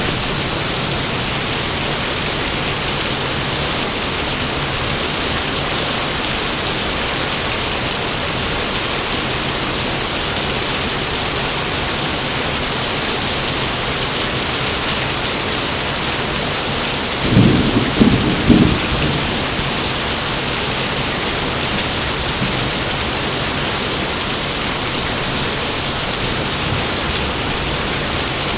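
Heavy rain falling steadily, with a short loud clap of thunder, several cracks close together, about two-thirds of the way through.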